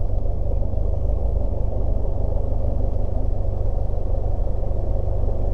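Cessna 172S's four-cylinder Lycoming engine and propeller running at idle on the ground, a steady drone as heard inside the cabin.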